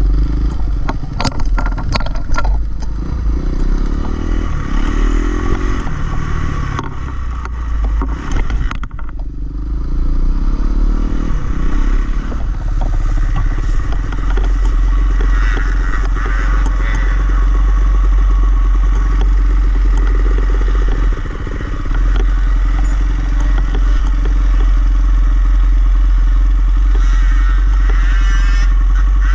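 Dirt bike engine running, its pitch rising and falling for the first several seconds amid clattering knocks, then running steadily.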